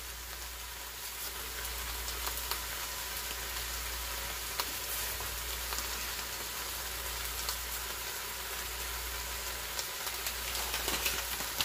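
Chicken, cabbage and carrots sizzling in the stainless inner pot of an Instant Pot on sauté mode: a steady frying hiss with a few faint ticks.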